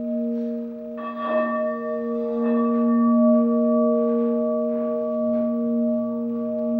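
Pink quartz crystal singing bowls ringing: several steady, overlapping tones with a slow wavering pulse. About a second in, a bowl is sounded again and adds higher ringing tones that fade over the next couple of seconds.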